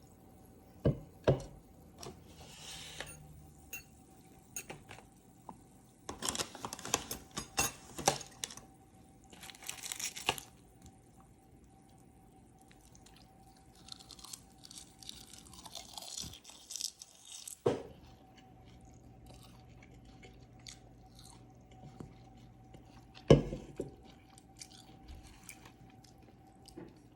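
Handling noises: scattered clicks and knocks with stretches of rustling, the loudest a sharp knock near the end, over a faint steady hum.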